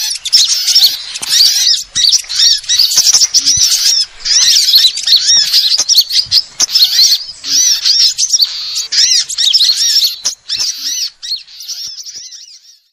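Recorded lure calls of small songbirds: a dense chorus of rapid, high arched chirps, many overlapping, that fades out near the end.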